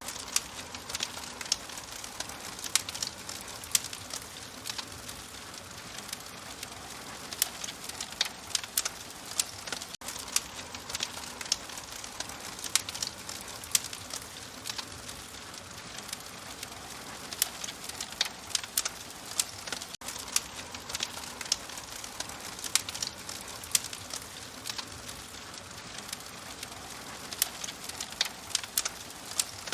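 Wood fire crackling in a fireplace: frequent irregular sharp pops and snaps over a steady soft hiss.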